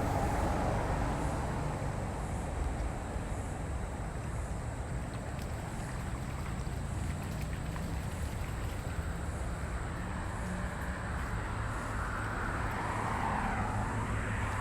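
Floodwater rushing steadily through a swollen creek, with wind buffeting the microphone.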